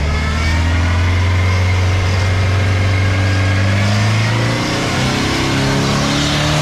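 Off-road 4WD's engine running steadily under load at low revs, its pitch edging up a little about four seconds in.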